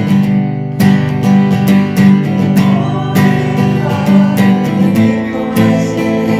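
Acoustic guitar strumming chords in a steady rhythm, the accompaniment for a worship song.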